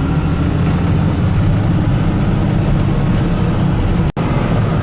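Semi truck's diesel engine running steadily, heard from inside the cab as a low drone with road noise. The sound cuts out for an instant about four seconds in.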